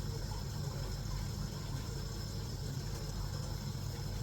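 A steady low mechanical hum with a faint high-pitched whine above it, unchanging throughout.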